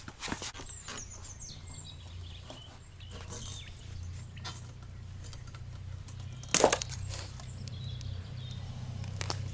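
Scattered light knocks and clicks from a metal chimney pipe being fixed in place with metal strapping tape, with one sharp knock about six and a half seconds in, over a steady low hum.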